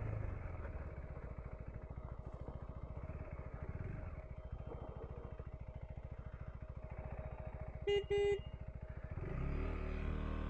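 KTM 390 Enduro R's single-cylinder engine running at low speed over rough ground, picking up revs about nine seconds in. Two short beeps of the motorcycle's horn about eight seconds in.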